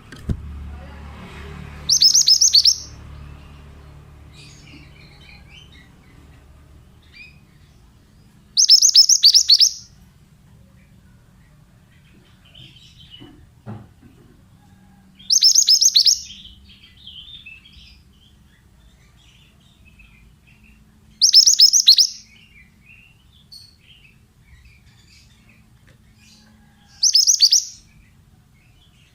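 Pied bushchat (mantenan) song: a short, brisk high phrase lasting about a second, repeated five times at even gaps of about six seconds, with faint softer chirps between.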